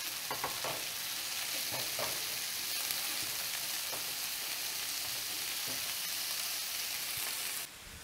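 Asparagus, halved cherry tomatoes and garlic sizzling in olive oil and butter in a stainless steel skillet as the tomatoes cook down. A silicone spatula scrapes and taps against the pan now and then while stirring. The sizzle cuts off suddenly near the end.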